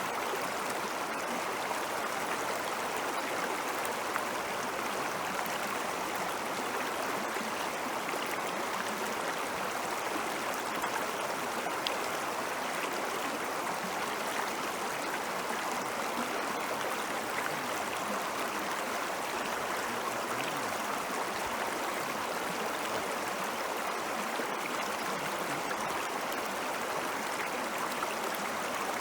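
Meltwater stream flowing steadily, a constant rush with small gurgles.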